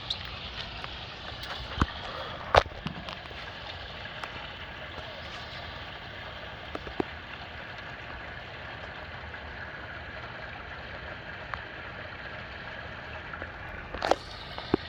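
Steady rain falling on and around an outdoor swimming pool, an even hiss, broken by a few sharp taps: one about two seconds in, a couple more in the middle and one near the end.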